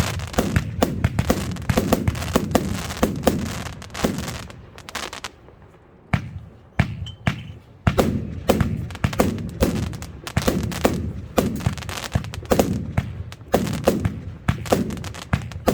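Evolution Fireworks 'Snowstorm' compound cake firing shot after shot in quick succession, several a second, each a sharp bang. The firing thins out about five seconds in, leaving a gap of a couple of seconds with only a few shots, then picks up again at full pace.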